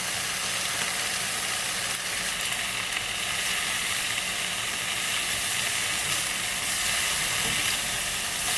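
Turkey bacon frying in a pan: a steady sizzle.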